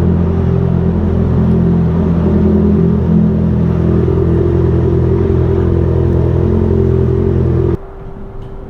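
Motorcycle engine idling steadily and loudly, then cutting off suddenly near the end, leaving a faint steady hum.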